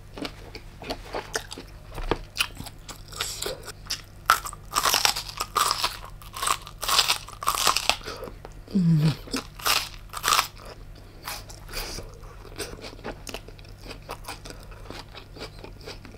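Close-miked biting and chewing of cooked giant tiger prawn meat: irregular crisp crunches and wet mouth clicks, loudest in a run of crunches in the middle. The firm, crunchy flesh gives the crisp bite. A brief falling hum comes about nine seconds in.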